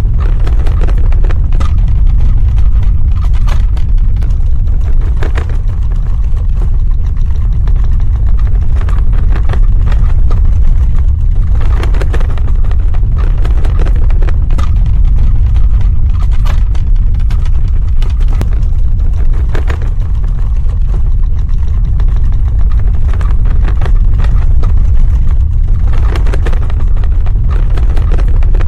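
Earthquake sound effect: a loud, continuous deep rumble with crackling and rattling on top, swelling every few seconds.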